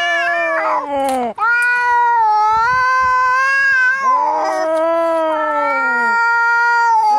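Cat caterwauling in a fight: long, wavering yowls, one breaking off about a second in and a new one rising about four seconds in.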